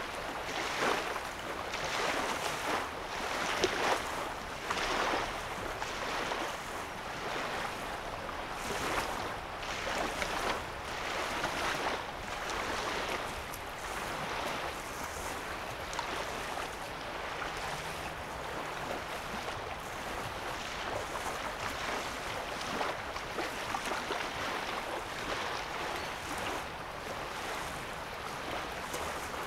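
Small lake waves lapping at the shoreline, a soft wash of water coming about once a second, stronger in the first half and settling into a more even splashing.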